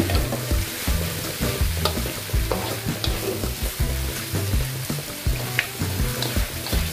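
Crumbled tofu and carrot frying in a wok, sizzling steadily while a spatula stirs it and scrapes and taps irregularly against the pan.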